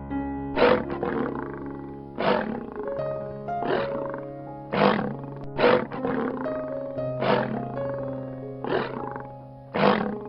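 Lion roaring in short bursts, about eight times, over background music with sustained notes.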